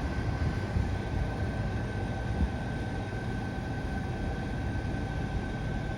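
Bombardier Innovia APM 100 rubber-tyred people-mover train running along its guideway as it departs: a steady low rumble with a steady high-pitched whine.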